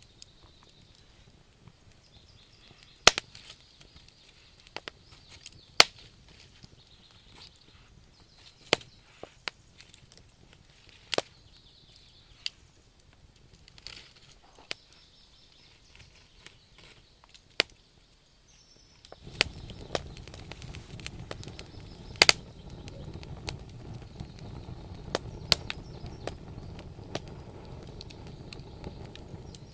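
Wood fire crackling, with sharp, irregular pops from the burning logs. About two-thirds of the way through, a steady low rushing noise of the flames comes in under the crackles.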